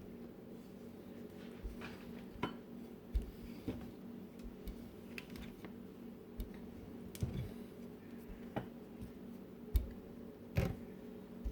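Scattered light knocks and clinks of kitchen utensils against a countertop and dishes, a dozen or so spread irregularly, the loudest near the end, over a steady low hum.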